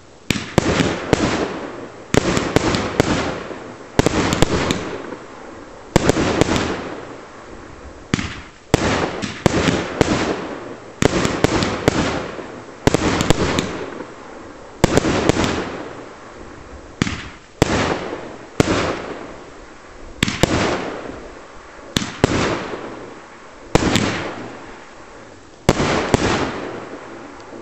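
A consumer fireworks battery of small shells with flashing green rain firing in succession: a sharp bang every second or two, each trailing off over a second or so, sometimes two or three bangs close together.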